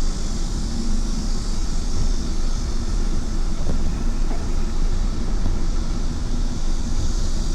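Steady wind rush and low rumble on the microphone while riding along, with no separate events standing out.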